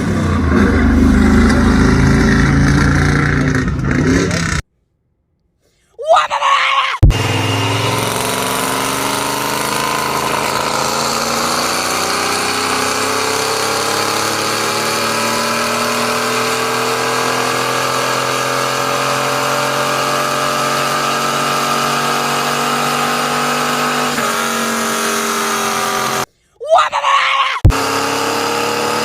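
V8 exhaust through shorty headers and performance mufflers: a loud, low rumble for the first few seconds, cut off abruptly. After that the engine note rises slowly and steadily for over ten seconds, holds, then eases down, with short loud bursts where the clips are joined.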